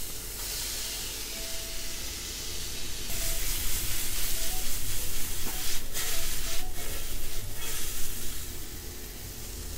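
Sliced mushrooms sizzling in a hot stainless steel frying pan, the sizzle growing louder about three seconds in as the pan is tossed. Two short knocks come near the middle.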